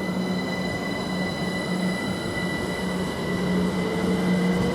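Great Northern Class 387 Electrostar electric multiple unit pulling away from the platform, its running noise steady under a few constant high tones, with a traction-motor whine that starts climbing in pitch about three and a half seconds in as it accelerates.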